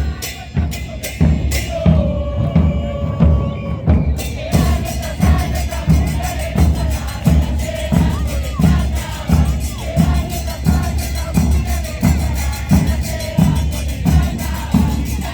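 Carnival drum troupe playing a steady, even beat on bass drums, a little under two strokes a second, with sharper ticking drums over it and a crowd's voices behind.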